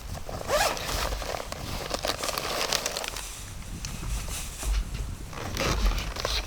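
Rustling and clicking of camping gear being handled close by, with a crow cawing briefly about half a second in and again near the end.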